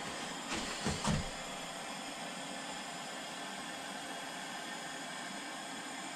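Steady hiss of a torch flame charring a wooden axe handle, with a few short knocks about a second in.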